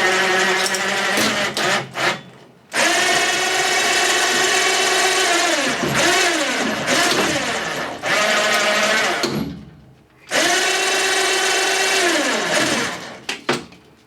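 Small electric power tool motor running at high speed in repeated bursts. Each burst starts abruptly and winds down with a falling pitch when released, and there are a few clicks near the end.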